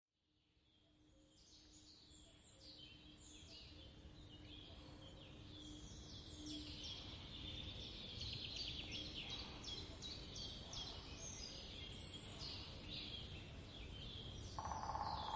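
Forest ambience: many small birds chirping and singing over a steady low background hiss, fading in from silence at the start. A denser noise comes in near the end.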